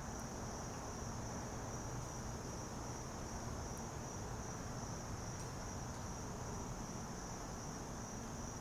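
Insects chirring in one steady, unbroken high-pitched drone.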